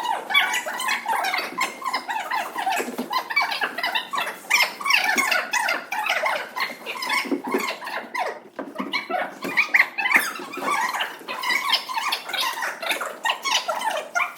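Many children's voices at once, chattering, calling and squealing over one another without a break.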